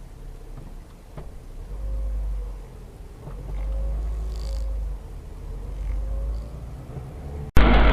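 Low rumble of a moving car, swelling and fading several times, as picked up by a dashboard camera, with a faint wavering whine above it. Just before the end it cuts abruptly to a much louder engine-and-road noise.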